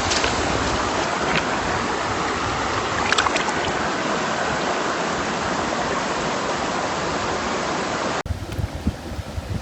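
Steady rushing of mountain-stream water, with a few faint clicks about three seconds in. About eight seconds in it cuts suddenly to a quieter sound with irregular low knocks.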